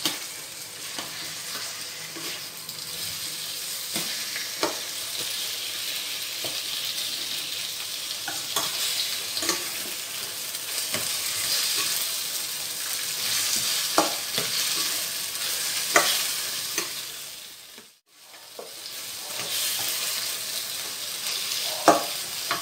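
Chopped onion, tomato, lemongrass and meat sizzling as they sauté in a stainless steel pan, stirred with a spatula that clicks and scrapes against the pan now and then. The sizzle briefly dies away about three-quarters of the way through, then returns.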